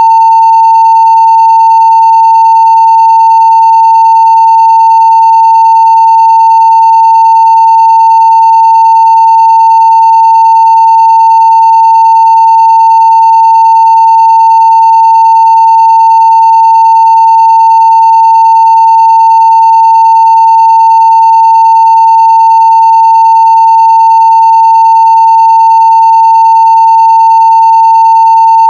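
Steady 900 Hz sine-wave test tone at full level (0 dB), held unchanging without a break.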